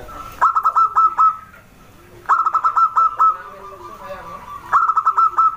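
Zebra dove (perkutut) singing its cooing song three times. Each phrase is a quick run of clipped notes on one high pitch over a lower, wavering coo.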